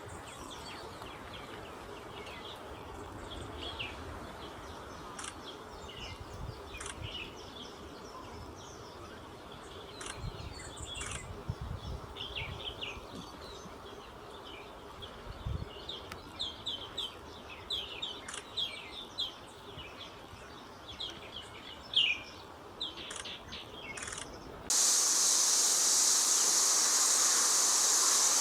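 Small birds chirping and calling in short, high notes, scattered and growing busier over about twenty-five seconds. Near the end they give way abruptly to a loud, steady rushing noise.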